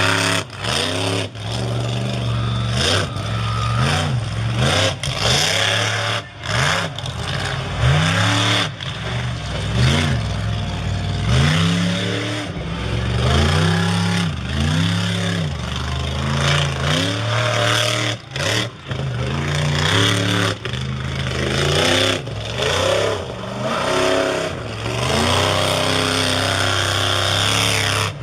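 Monster truck engine revving hard again and again, its pitch sweeping up and falling back every second or two, with a few brief drops in level.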